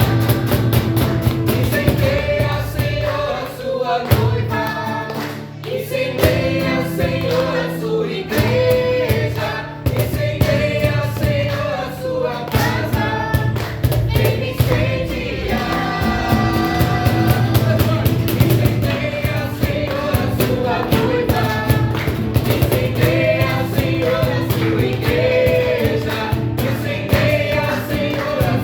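Gospel choir singing a worship song over a band with bass and a steady beat.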